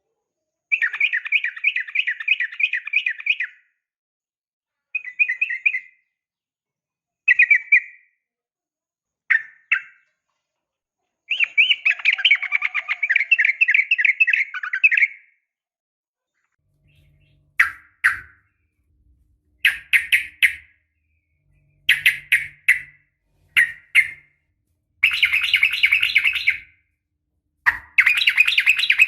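Yellow-vented bulbul (trucukan) calls, presented as a female calling to a male. It is a string of fast bubbling chatter phrases, some lasting about three seconds and others short, each stopping sharply with silent gaps between.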